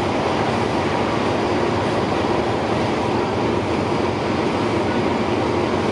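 Diesel train running steadily at close range: a constant engine hum under a wide, even mechanical noise.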